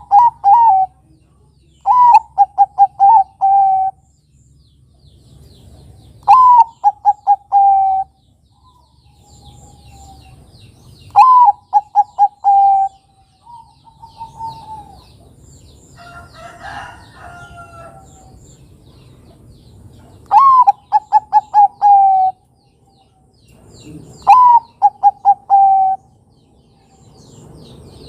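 Zebra dove (Bangkok-type perkutut) singing its cooing song six times, each phrase a higher opening note followed by a quick run of about five short, even coos, repeated every few seconds.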